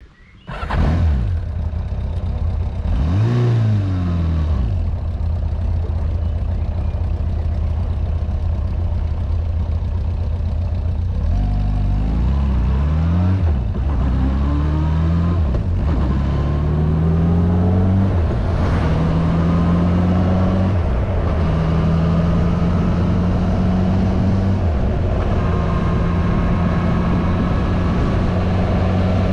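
Yamaha inline-four motorcycle engine heard from on board: a short rev a few seconds in, then pulling away and shifting up through several gears, the pitch climbing and dropping back at each shift, before settling into a steady cruise.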